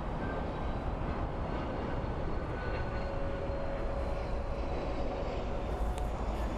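Steady jet aircraft engine noise: a constant rumble with a faint whine over it.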